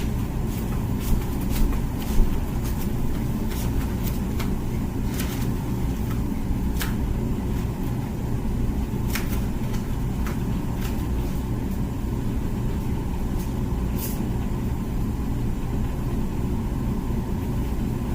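Comfee dishwasher running mid-cycle: a steady low hum, with scattered light clicks and taps over it.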